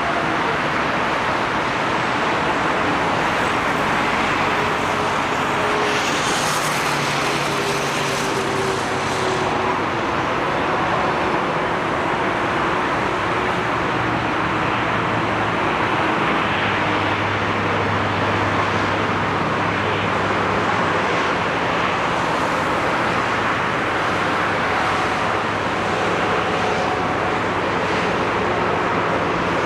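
Airbus A380 airliner noise: a steady rushing roar with a low engine hum that shifts slightly in pitch.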